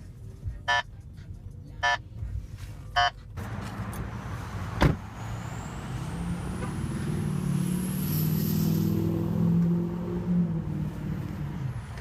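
Three short electronic chime beeps about a second apart, then a V8 car engine running and pulling. Its note rises over several seconds with a high whine climbing alongside, then eases off near the end.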